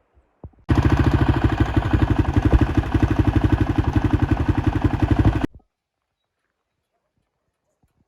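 Motorcycle engine running with rapid, even firing pulses. It starts suddenly about a second in and cuts off about five and a half seconds in.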